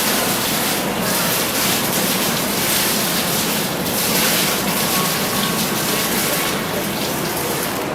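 Fountain water gushing and splashing in a steady rush that swells and eases slightly.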